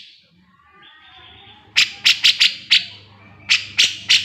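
Cucak jenggot (grey-cheeked bulbul) singing: a soft warbling phrase, then loud, sharp notes repeated rapidly, about five a second, in two bursts.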